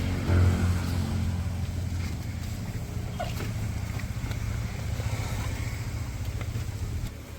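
A motor runs with a steady low drone and a few faint clicks over it. The drone drops in level about seven seconds in.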